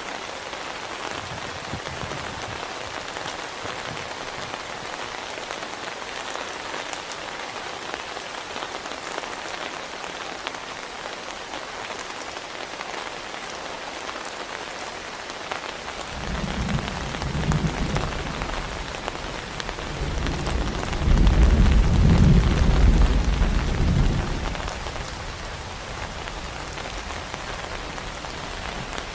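Heavy rain falling steadily, with a roll of thunder rumbling in just past halfway: it builds for several seconds, is loudest a little later, then dies away, leaving the rain.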